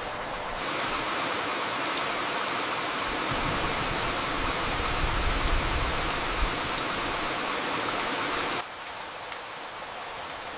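Steady rain, a dense hiss with a few separate drop ticks. It grows louder and fuller about half a second in, then falls back abruptly about two seconds before the end.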